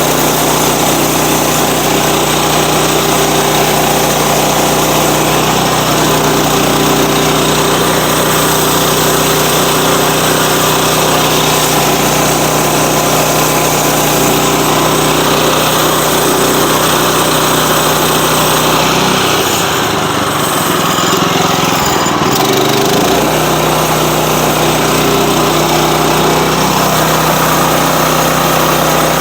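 Sawmill's small engine running steadily under way, a constant loud drone. About two-thirds of the way through, the low hum briefly drops out for a few seconds, then returns.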